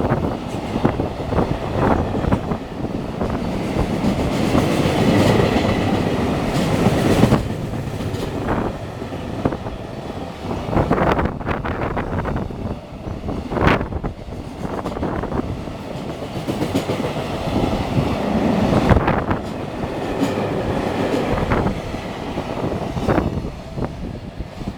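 Freight train running past: a steady rumble of wagons, with the wheels clacking over rail joints again and again.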